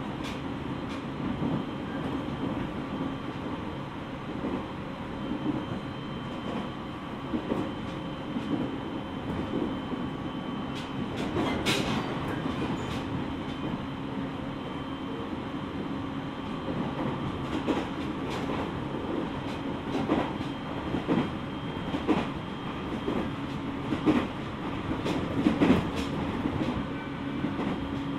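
Running sound inside a JR East 701 series electric train, heard at the front of its lead motor car: a steady hum and rumble with a few steady tones, and frequent irregular clacks of wheels over rail joints, one sharper and brighter about twelve seconds in.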